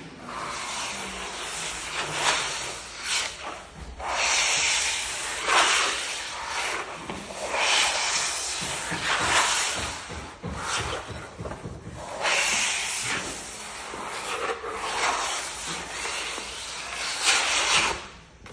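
Repeated scraping and rubbing strokes on a parquet floor, an uneven hiss that swells and fades every second or two.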